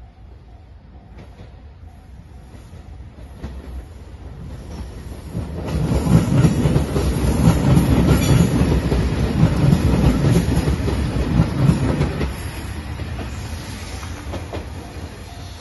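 JR Shikoku 2700 series diesel limited express train passing close by at speed. Its engines and wheels clattering over the rail joints grow louder, come in sharply about six seconds in, stay loud for about six seconds, then fade as the train goes away.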